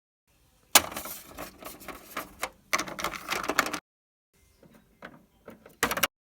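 Clattering and knocking of small hard objects being handled and rummaged through. It starts with a sharp knock about a second in, clatters busily for about three seconds, then settles to a few scattered clicks and one short burst near the end.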